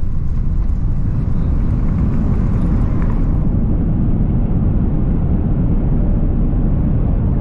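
Steady loud low rumble of a vehicle in motion, heard from inside.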